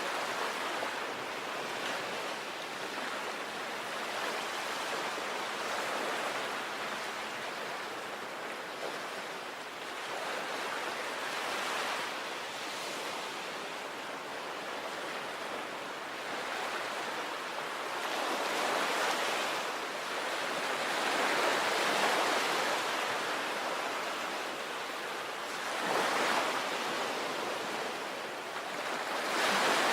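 Sea waves breaking and washing up a beach in a continuous hiss of surf, swelling and falling back every few seconds, with bigger surges about two-thirds of the way through and near the end.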